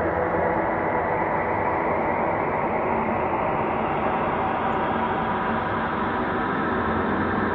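Synthesized ambient space drone: a steady, dense hum with many held tones layered together, slowly brightening as its upper range rises.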